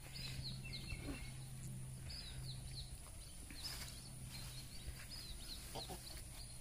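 Faint bird chirps: short, falling high notes in quick little groups, repeating every second or so over a low steady hum.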